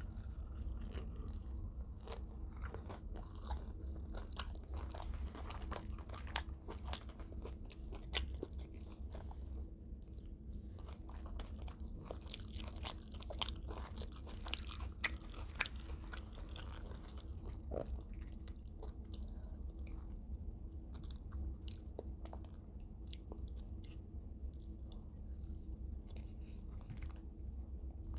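Close-miked chewing and crunching of extra crispy fried chicken, with irregular crisp crackles throughout over a steady low hum.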